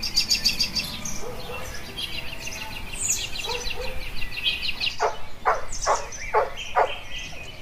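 Birds chirping in quick high trills; from about two-thirds of the way in, one bird gives a run of about six whistled notes, each falling steeply in pitch.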